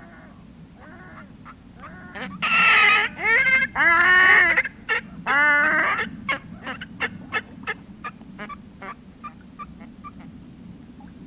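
Whooper swans calling: a few loud, brassy honking calls in quick succession, followed by a run of shorter, fainter calls that die away.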